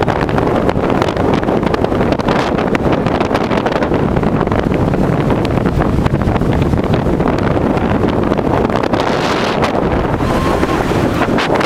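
Strong storm wind buffeting the microphone: a loud, continuous rumbling rush with crackling gusts, with no let-up.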